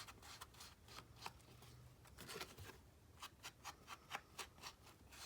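Faint quick dabs and scuffs of distress ink being applied around the edges of a paper tag, irregular at first and then a steady run of about three taps a second.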